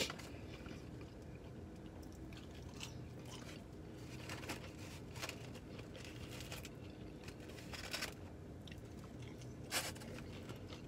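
A person chewing and crunching crispy fried food, with scattered short crackles over a steady low hum.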